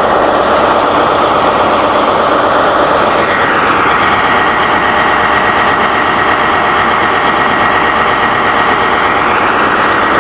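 Diesel train's engine running, a loud steady drone with a faint steady whine; it grows a little fuller about three and a half seconds in.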